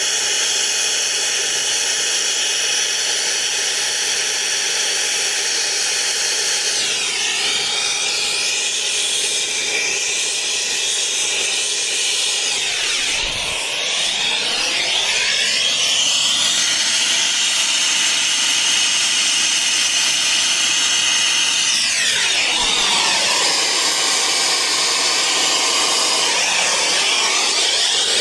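Air-fuel turbo torch flame running with a steady hissing rush while brazing copper refrigerant lines. Its tone shifts and swirls a few times, about a quarter, halfway and three quarters of the way through.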